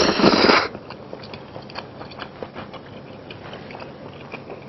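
A person slurping a mouthful of noodles loudly for about the first half second, then chewing with many small wet clicks and smacks.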